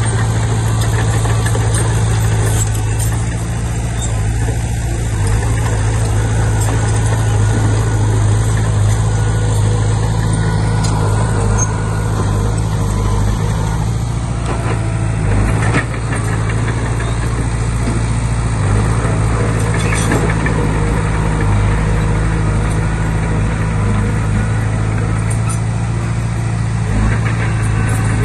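Diesel engine of a Komatsu D20P bulldozer running steadily, with a few sharp clanks now and then.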